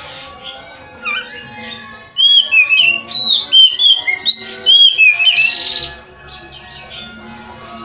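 Oriental magpie-robin singing a loud run of rich whistled notes, quickly varied and arching in pitch, with a brief harsh note near the end. Fainter chirping comes before and after it.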